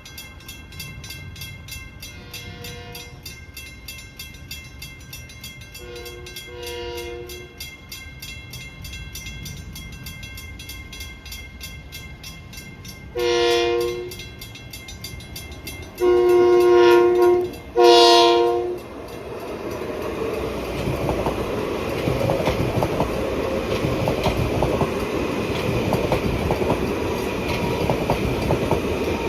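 Long Island Rail Road train sounding its horn, first twice faintly in the distance, then three loud blasts (short, longer, short) as it comes close. It then passes with a rising rumble and the clickety-clack of wheels on rail joints.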